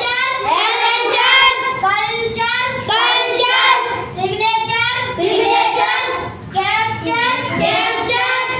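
A group of children chanting English words in unison in a high, sing-song recitation: a phonics drill of '-ture' words.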